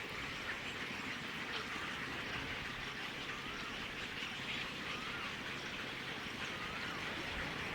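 A few faint, wavering bird calls over a steady outdoor hiss.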